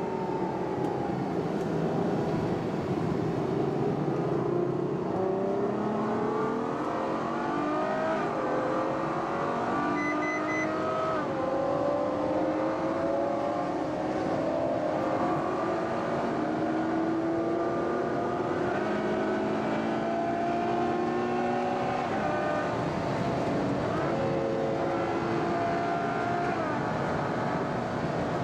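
Ferrari FF's V12 engine heard on board as the car accelerates. The engine note climbs and then drops sharply at each upshift, several times over. A few short high beeps sound about ten seconds in.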